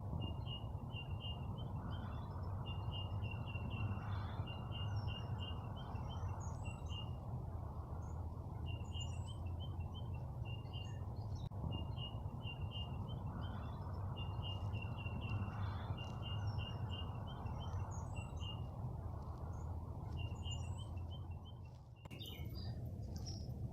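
Birds chirping in quick repeated trains of short notes, over a steady low rushing background noise; the sound changes abruptly near the end.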